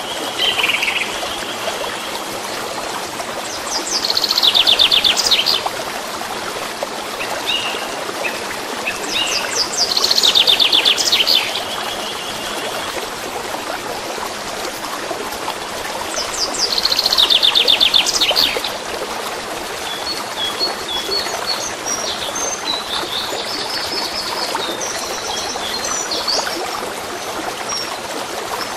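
Songbirds singing over a steady stream of running water. Three loud, fast trilled phrases come a few seconds apart in the first two-thirds, followed by scattered short chirps.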